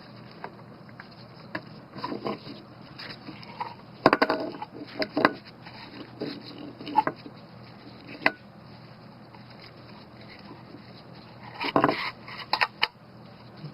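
Irregular knocks, clicks and scrapes of a lawn mower's recoil starter pulley and housing being handled while its spring is wound tight by gloved hands, with a louder clatter about four seconds in and again near the end.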